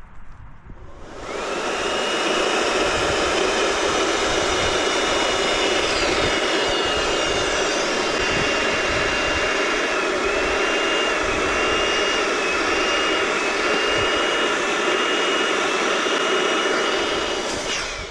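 Electric balloon pump running steadily while inflating an 18-inch latex balloon, with a steady whine that wavers slightly partway through. It switches on about a second in and cuts off near the end.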